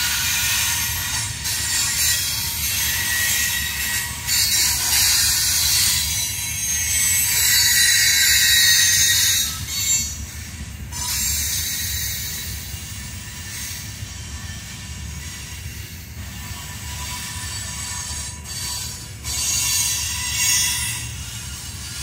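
Loaded ballast hopper cars of a freight train rolling past with a low rumble and a high-pitched wheel squeal. The squeal is loudest in the first half, eases after about ten seconds and swells again near the end.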